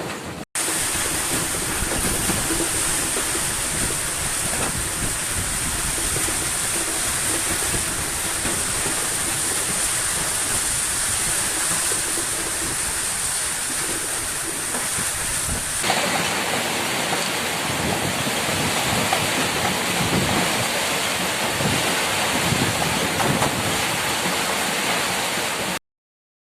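Heavy rain pouring down in strong wind, a steady loud rushing hiss. The sound changes abruptly about sixteen seconds in and cuts off suddenly near the end.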